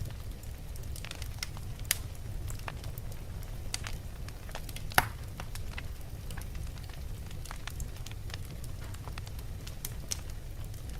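Wood fire burning in a fireplace, crackling steadily with many small snaps over a low rumble. A louder pop comes about two seconds in and the loudest about five seconds in.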